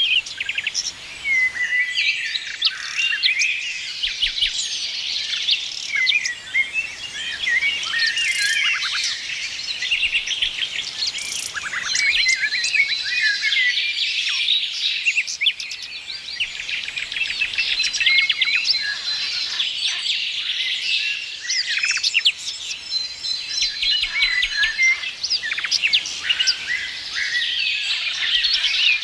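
A chorus of several songbirds singing and chirping continuously, overlapping trills, rapid chirps and short whistles.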